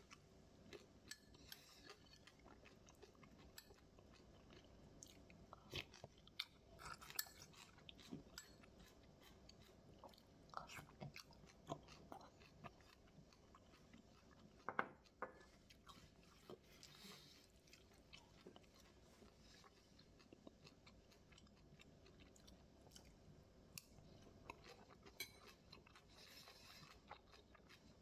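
Quiet close-up eating sounds: chewing and crunching of homemade bibimbap, with scattered small clicks and taps, the sharpest about fifteen seconds in.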